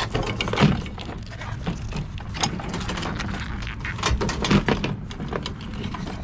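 Rustling, clicks and knocks of equipment being handled, as extension cords are picked through and sorted.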